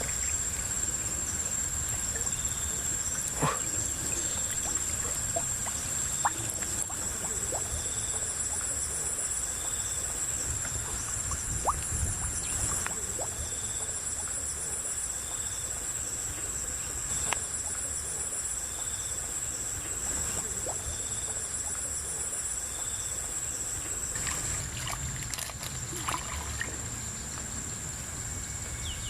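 Small splashes and trickling of river water as a person wades and gropes in the muddy riverbed for freshwater mussels, with scattered light knocks. Under it, a steady high insect drone and a pulsing high chirp go on.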